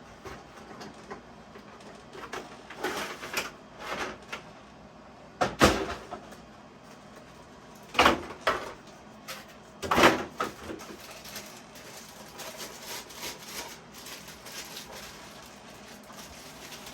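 Cardboard box and packaging being handled while a model train boxcar is worked out of it, with rustling and scraping and three sharp knocks, about five, eight and ten seconds in.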